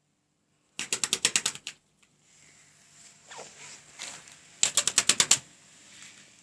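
A bird loose inside a house, giving two short bursts of rapid rattling strokes, about ten a second, one about a second in and another near the five-second mark.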